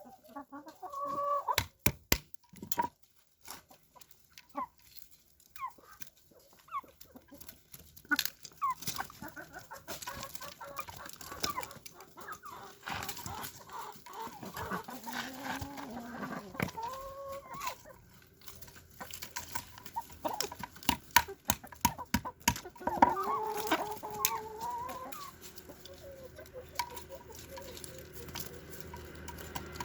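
Domestic chickens clucking and calling, with one longer wavering call about three-quarters of the way through, amid many sharp clicks and taps.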